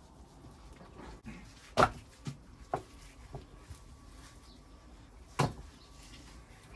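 A few sharp, irregular knocks and clacks of stone and tools being handled in stonework, loudest about two seconds in and again a little past five seconds.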